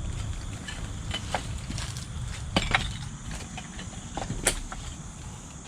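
Footsteps on debris: irregular snaps and crackles, the loudest about two and a half seconds and four and a half seconds in, over a low rumble and a steady high insect drone.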